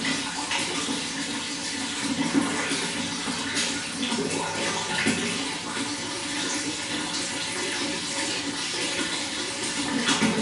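Running water flowing steadily, gurgling, with small splashes every second or two.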